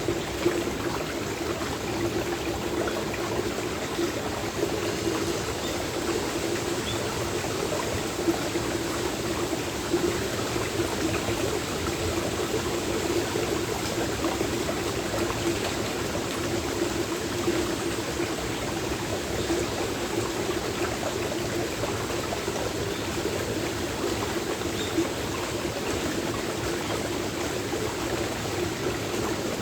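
Steady flowing water of a stream, with a few brief sharp taps of acorns dropping scattered through it.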